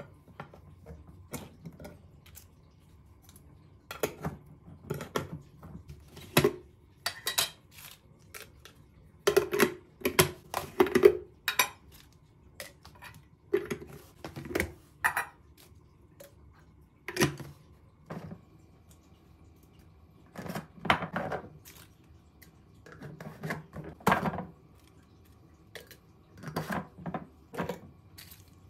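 Irregular clinks and knocks of dishes, pots and utensils being handled, in short bursts with brief pauses between.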